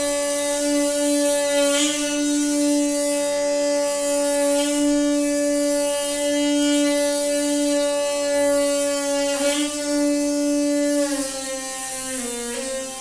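Noisy water pipe humming with a loud, steady horn-like tone that holds one pitch, then wavers and drops slightly about eleven seconds in.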